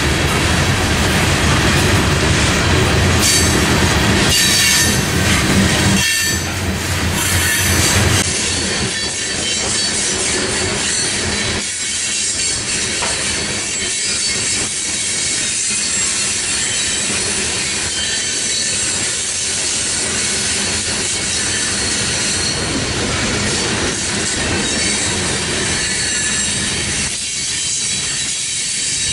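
Freight train passing: a heavy low rumble for the first several seconds, then the cars rolling by with a steady high-pitched wheel noise.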